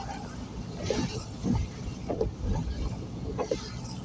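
A vehicle travelling on a wet road in drizzle: a steady low rumble of engine and road noise.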